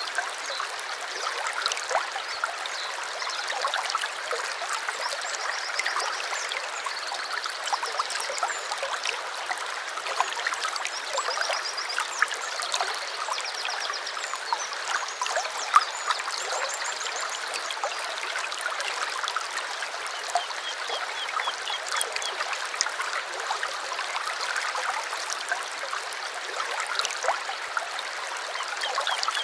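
Small stream trickling and babbling over stones, a steady rush of water full of little splashes. Birds sing short, rapid trills above it, several in the first half and again about two-thirds of the way through.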